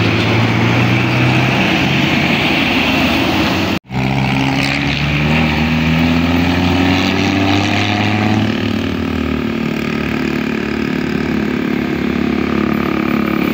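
Heavy vehicle engine running, with steady pitch lines that rise gradually after a sudden brief dropout about four seconds in.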